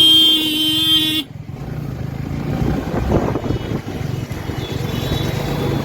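A vehicle horn sounds one steady honk that cuts off about a second in, over a motorcycle engine running with road and wind noise while riding.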